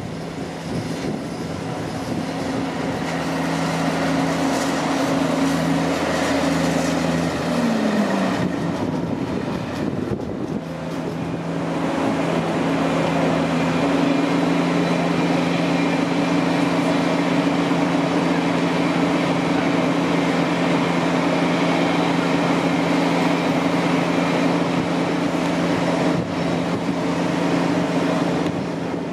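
Electric trains passing on the main line: first a Heathrow Express unit, whose steady low hum drops in pitch and fades about eight seconds in, then a GWR Class 802 intercity train running past with a steady low hum and the noise of its wheels on the track.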